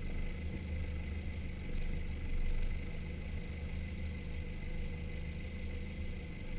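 Four-wheel drive's engine running low and steady as the vehicle crawls down a rutted dirt track, a steady deep drone with no revving.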